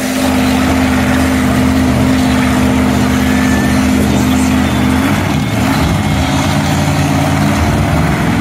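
Monster truck engine running loud and steady under high revs, its pitch dropping and wavering about five seconds in.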